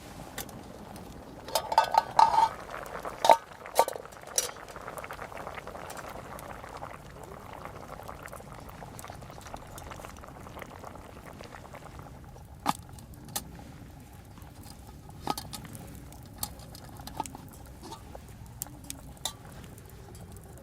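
A metal utensil clinks sharply against a pot several times in the first few seconds. After that the pot simmers and bubbles steadily, with scattered sharp ticks.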